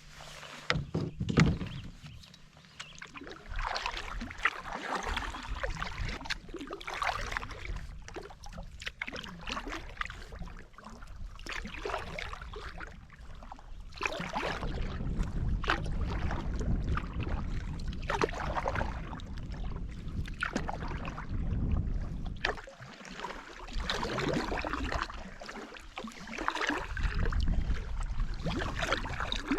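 Canoe paddle strokes: the blade dips and pulls through the water with a splash roughly every second or two. There is a sharp knock about a second in, and a low rumble under the strokes through the second half.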